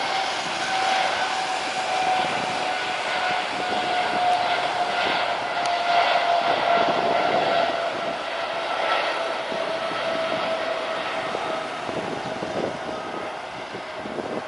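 Jet airliner engines running, a whine over a broad rush that slowly drops in pitch and is loudest midway.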